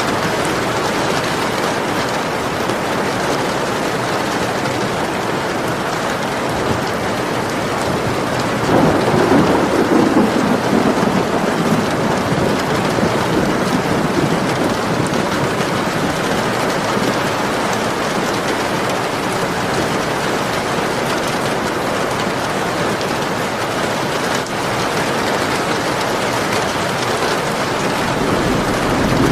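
Steady rain falling hard, with a low roll of thunder swelling up about nine seconds in and fading over a few seconds. Another rumble begins right at the end.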